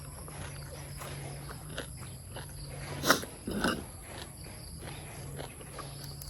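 A person chewing and smacking a mouthful of raw beef koi, with scattered wet mouth clicks and a louder bite or slurp about three seconds in, over a steady low hum.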